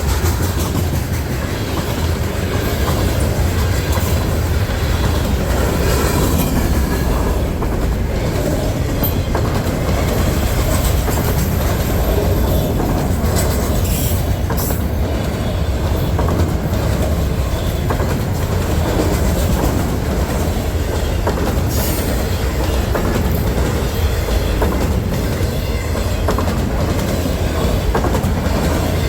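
Freight train cars rolling past at close range: a steady rumble of steel wheels on rail, with a few sharp clicks.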